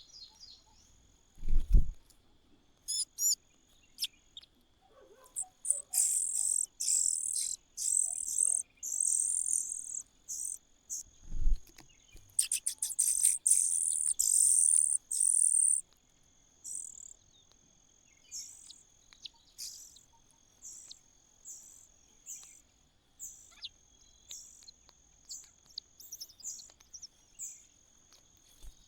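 Nestlings giving high-pitched begging calls: a loud run of rapid cheeping from about six to sixteen seconds in, then short single calls about once a second. A steady high insect drone runs underneath, and there are two dull thumps, one near the start and one about eleven seconds in.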